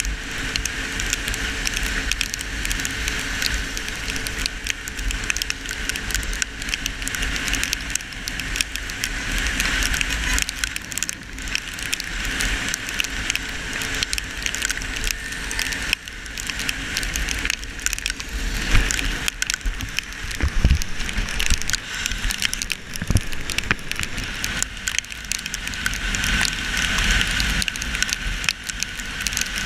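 Heavy rain and wind hitting a GoPro in its waterproof housing on a KTM Duke 200 motorcycle riding at speed: a steady rushing hiss with a low wind rumble and constant crackling raindrop hits.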